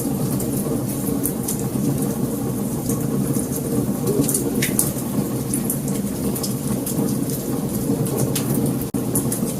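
Wood fire crackling: a steady low rumble of flames under many scattered sharp pops and snaps, with a brief dropout near the end.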